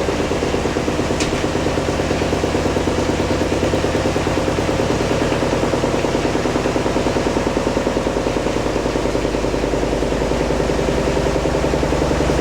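Hoover DynamicNEXT washing machine spinning steadily at 800 rpm on its wool-cycle spin, its brushless inverter motor running with a rhythmic pulse from the turning drum.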